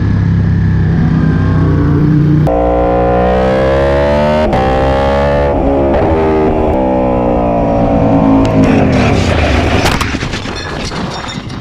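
Aprilia Tuono V4 1100's V4 engine pulling hard under acceleration, its pitch climbing and dipping with the gear changes. About nine seconds in the engine note drops off, leaving a rough, noisy clatter with sharp clicks.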